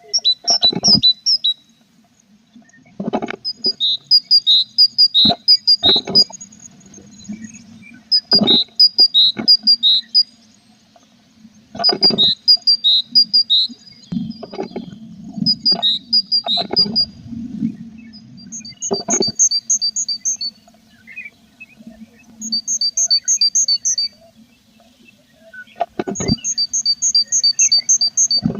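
Tit nestlings in a nest box chirping in rapid runs of high, evenly spaced notes, about five a second, coming again every few seconds, with knocks and scuffling of birds moving against the wooden box.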